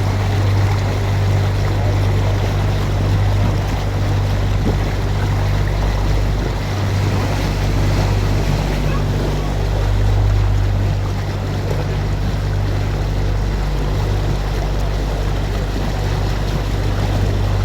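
Canal tour boat's motor running steadily under way, a low hum with a rushing hiss of water and air over it.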